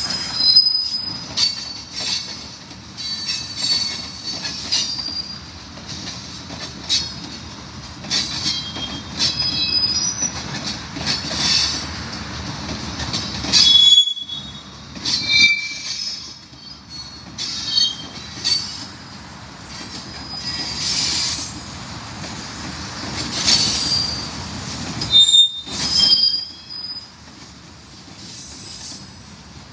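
Slow-moving freight train of tank cars and covered hoppers rolling past, its wheels squealing against the rails in many short high-pitched screeches over a steady low rumble of the cars.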